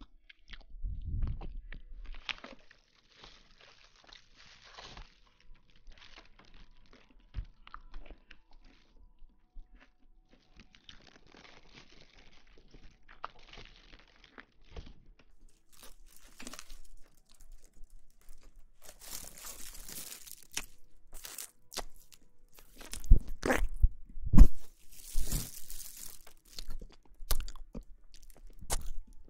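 Close-miked crunching and rustling in irregular bursts with sharp clicks, soft in the first half and louder and sharper in the second half.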